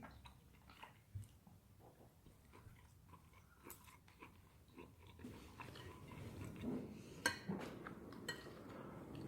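Someone chewing a bite of charcoal-grilled pork neck: soft, irregular chewing and mouth sounds, with a sharper click about seven seconds in.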